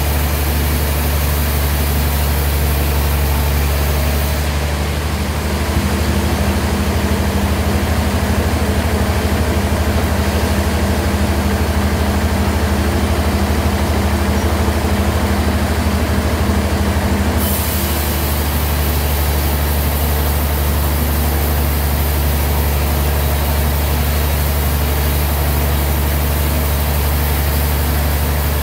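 Band sawmill machinery running with a loud, steady low hum. From about four seconds in until near eighteen seconds the hiss drops away and a slightly higher hum comes in, then the earlier sound returns.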